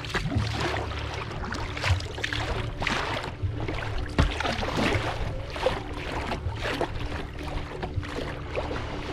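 Kayak paddle splashing into the water at irregular strokes about once a second, with water sloshing around the hull. A steady low hum with a few held tones runs underneath.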